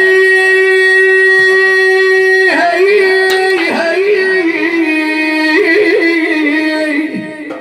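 A male chanter's voice singing a hida lament without words: one long held note for about two and a half seconds, then a wavering, ornamented melisma that fades out near the end.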